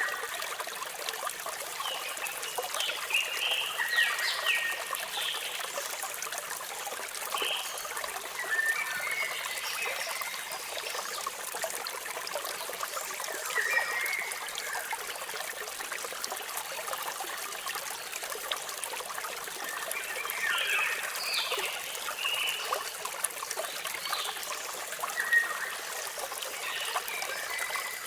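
Steady splashing of a waterfall, with birds chirping in short bursts every few seconds.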